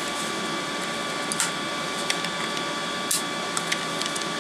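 Steady electric hum of a desoldering station's vacuum pump, with a few faint clicks as the spring-loaded desoldering gun is worked.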